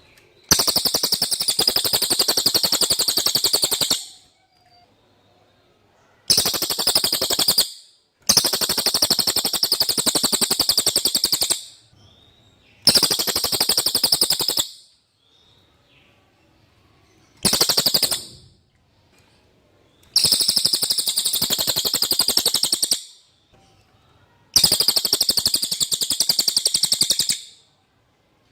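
Cililin bird singing in seven bursts of very fast, rattling trills, each lasting one to four seconds, with short pauses between them.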